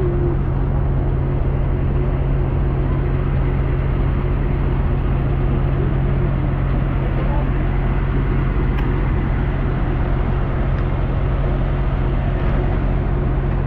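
Steady interior noise of a moving vehicle: a constant low engine drone under an even rushing noise, unchanging throughout.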